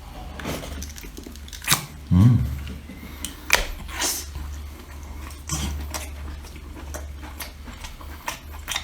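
Scattered sharp clicks and taps of seafood and utensils being handled, with a short low sound about two seconds in.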